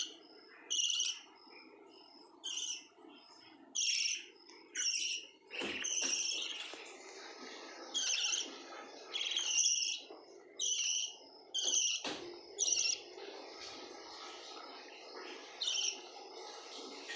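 Pet lovebirds calling: about ten short, shrill chirps, roughly one a second with a few longer gaps, over quieter background chatter.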